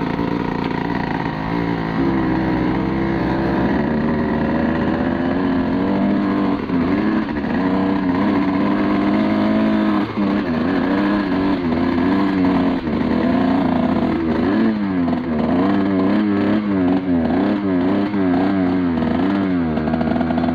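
Two-stroke off-road engine running under load, its pitch rising and falling over and over as the throttle is worked, more rapidly in the second half.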